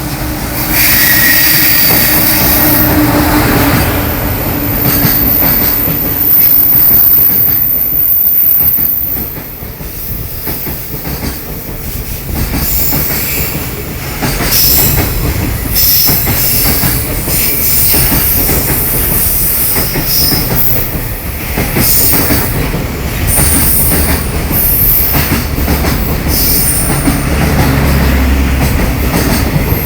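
Freight train passing through the station without stopping: loudest over the first nine seconds, then a long run of wagons clattering over the rail joints with repeated high wheel squeals.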